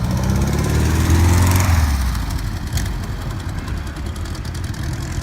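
A car's engine as it pulls away under throttle, the pitch climbing slightly and loudest about a second and a half in, then fading as it drives off.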